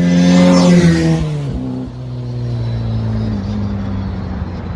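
Car engine running hard, its pitch falling in steps as it settles into a lower, steady note.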